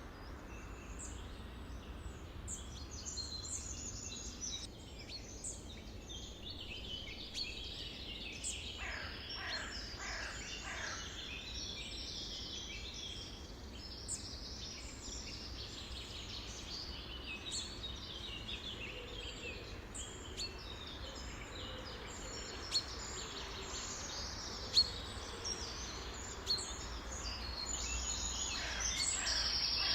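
A chorus of many songbirds chirping, trilling and calling over one another, with a few calls gliding downward about a third of the way in, over a steady low background rumble. A few sharp clicks stand out in the second half.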